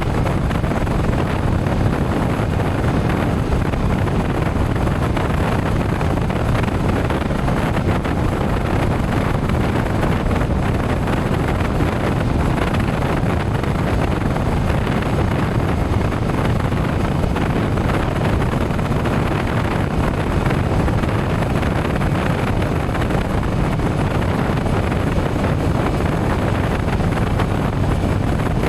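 Steady rush of wind on the microphone of a moving motorcycle, with engine and road noise underneath. The level stays even throughout, suggesting a constant cruising speed.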